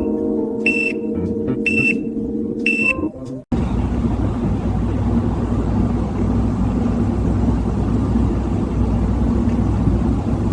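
High electronic beeps, about one every two-thirds of a second, over steady tones. They cut off sharply about three and a half seconds in. A steady low rumble of a car running follows.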